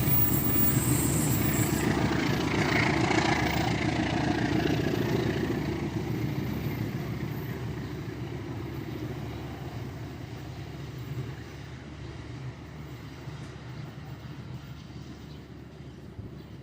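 A passing train's rumble, loud at first and then fading steadily as it moves away.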